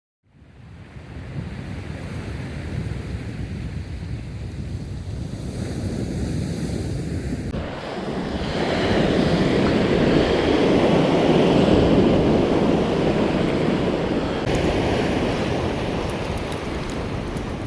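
Waves washing onto a surf beach, with wind buffeting the microphone. The sound fades in at the start and the wash swells louder about halfway through.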